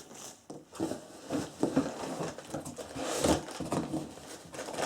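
Flat-pack chair parts and their packaging being handled: irregular knocks and rustles as pieces are lifted out of the box.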